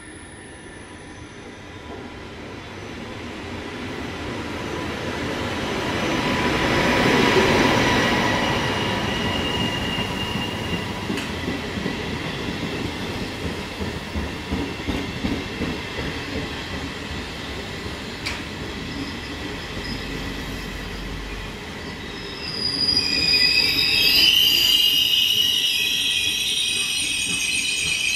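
Trenitalia regional passenger train arriving along the platform: it grows louder as the front passes, the coaches roll by with a rhythmic wheel clatter, and about 22 seconds in a high, several-toned squeal starts and carries on to the end.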